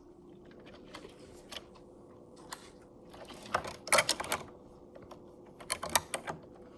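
Plastic LEGO pieces clicking and rattling as the model is handled: scattered light clicks, with a quick cluster about halfway through and another near the end.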